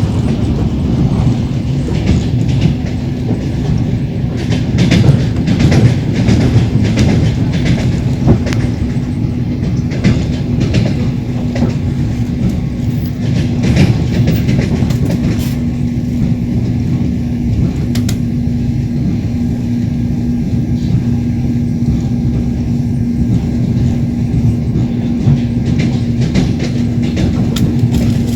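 Train wheels clattering over the rail joints, with a steady running rumble from under the carriage. A steady low hum joins a few seconds in.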